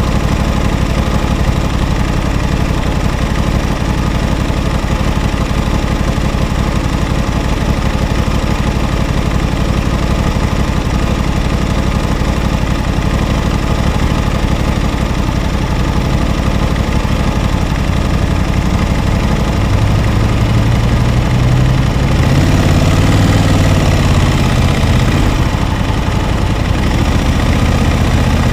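2021 Aprilia RS660's parallel-twin engine idling steadily; about twenty seconds in, the engine speed starts rising and falling.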